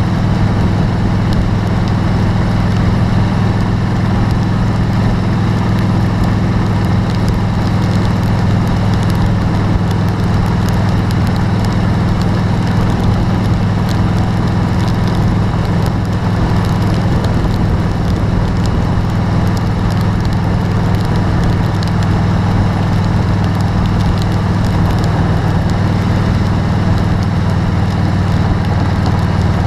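A vehicle running in hard rain: a steady low hum under the hiss and fine ticking of rain striking the vehicle.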